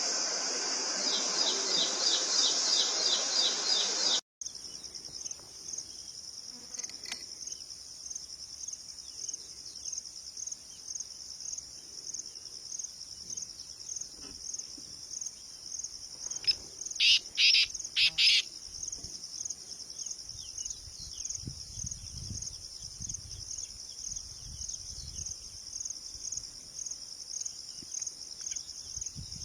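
Outdoor nature ambience: a rapid run of short chirps over a dense high hiss, then a sudden cut to steady, rhythmically pulsing insect chirping, like crickets. Partway through, a bird gives four loud, short, high calls.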